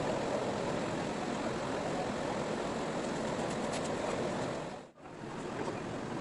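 Steady rushing noise of a ferry under way, engine hum mixed with wind and water. The sound cuts out sharply for a moment about five seconds in, then carries on.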